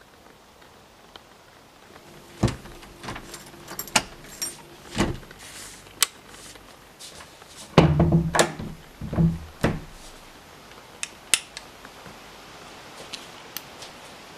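A key turned and worked in an old rim lock on a wooden door: a run of sharp metallic clicks and knocks, loudest in a cluster of rattles from about eight to ten seconds in, with a few lighter clicks after.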